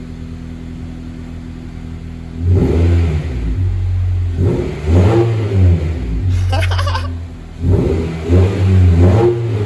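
2001 Honda CR-V's four-cylinder engine through a muffler-deleted straight-pipe exhaust (catalytic converter and resonator still in place), idling steadily for about two seconds, then revved up and let fall back several times.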